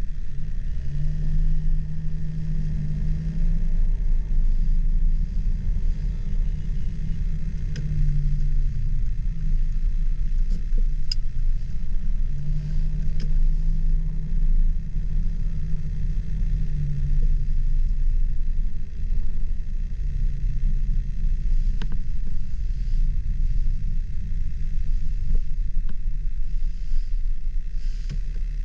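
Car driving: a steady low rumble of road and engine noise, with an engine hum that swells and fades several times and a few faint ticks.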